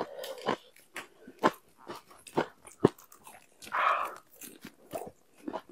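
Close-miked chewing and crunching mouth sounds of eating, many short crisp clicks, with a louder crunchy bite about four seconds in as a lettuce wrap is bitten into.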